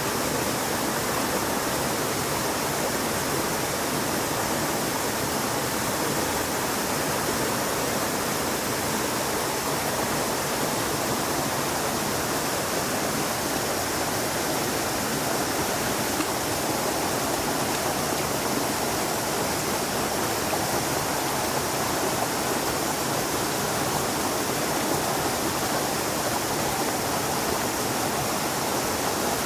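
Flowing water from a stream, a steady even rush with no pauses or changes.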